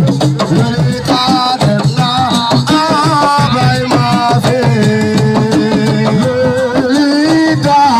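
Senegalese assiko band music: hand drums and rattles keeping a dense rhythm under held, gliding melody lines.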